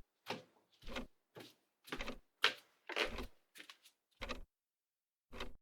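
Footsteps: about ten short, soft steps, roughly two a second and unevenly spaced.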